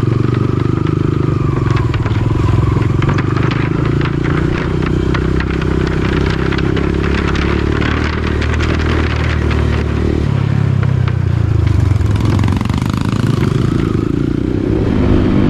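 Dirt bike engine running under way, with rattling and clattering from riding over rough ground. The engine note changes about ten seconds in.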